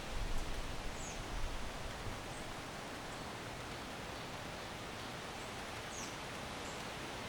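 Backyard ambience: a steady hiss of wind in the trees. Low gusts die away about two seconds in, and there are a few faint high chirps about a second in and again near six seconds.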